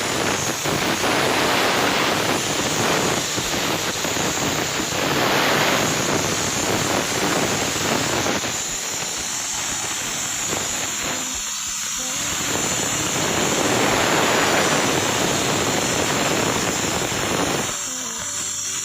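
CNC plasma torch cutting corrugated steel sheet: a loud, steady hiss of the arc and compressed-air jet that swells and eases as the torch moves. The hiss drops a little near the end.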